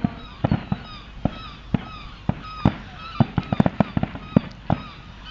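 A fireworks display: a rapid, irregular series of sharp bangs from bursting shells, thickest about three to four seconds in.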